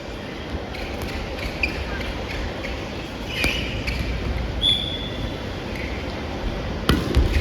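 Gym ambience during a soft volleyball game: a hall full of faint voices and scattered light clicks. There is a short high squeak about four and a half seconds in and a few sharp knocks near the end.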